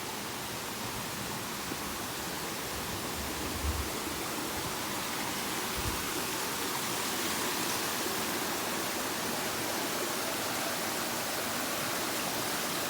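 Waterfall: a steady rush of falling water that grows slightly louder, with two soft low bumps about four and six seconds in.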